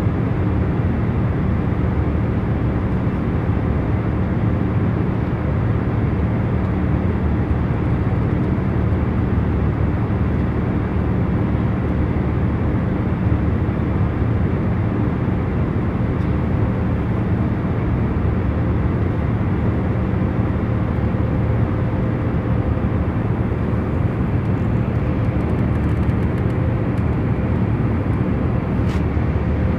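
Jet airliner cabin noise in cruise: a steady low rushing drone with a faint underlying hum, unchanging throughout.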